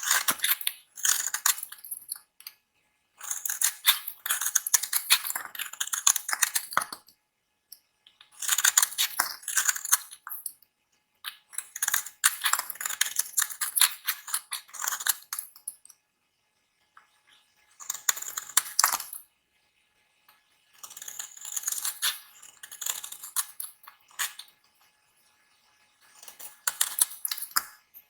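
A blade cutting into dry bar soap: crisp crackling scrapes in about eight bursts of one to four seconds, with short pauses between cuts.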